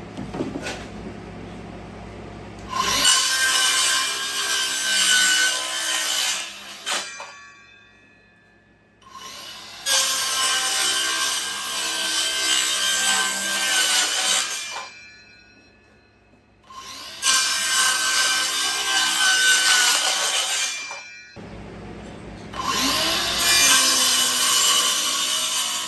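Bauer 20V cordless 6-1/2 inch circular saw cutting through wood, four cuts of about three to six seconds each. The blade winds down in the pauses between cuts.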